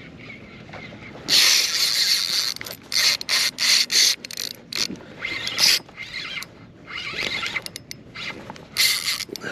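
Fishing reel ratcheting and buzzing in loud bursts while a hooked redfish is fought.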